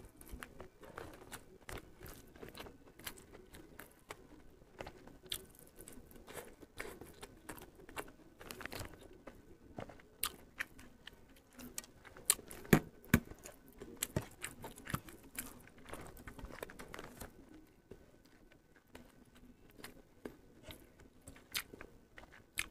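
A person eating close to the microphone: irregular chewing, biting and crunching of food eaten by hand, with sharp mouth clicks and smacks. A few of the crunches are louder, about twelve to thirteen seconds in.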